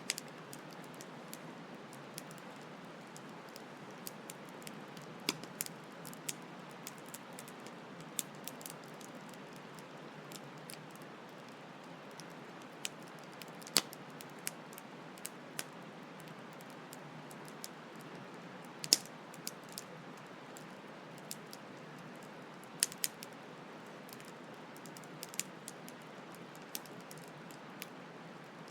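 Campfire crackling: irregular sharp pops and snaps, a few much louder than the rest, over a steady hiss of flowing stream water.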